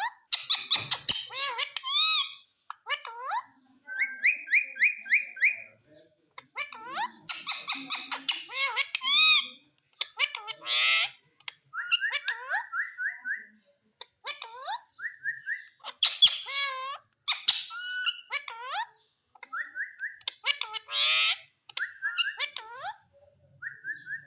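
Indian ringneck parakeet calling in a long run of squeaky notes, gliding whistles and rapid trills, in bouts broken by short pauses.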